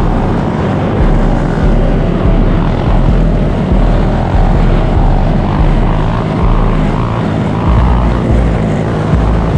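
Dirt bike and ATV engines running and revving together in a loud, continuous mass of engine noise with a heavy low rumble.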